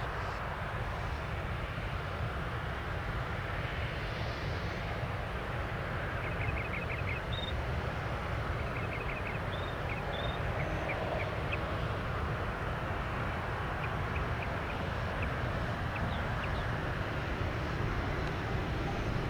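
Steady rumble of jet aircraft engines across the airfield, with a few short, faint bird chirps in the middle.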